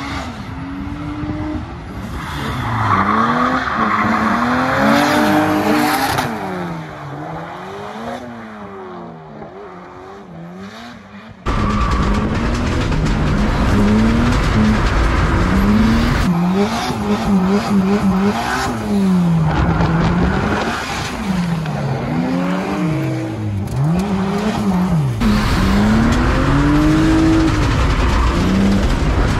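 A drift car's engine heard from the roadside, revving up and down as it slides through the corners, with tyres squealing. About a third of the way in it changes abruptly to the sound inside a BMW E36 being drifted: the engine revs rise and fall repeatedly over heavy low rumble and wind noise.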